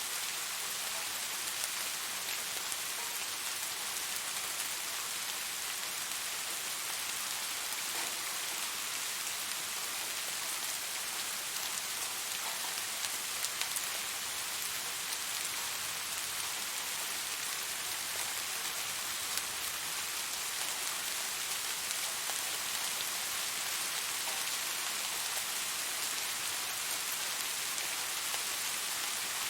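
Steady rain falling on a surface, an even hiss with a scattering of individual drops ticking now and then.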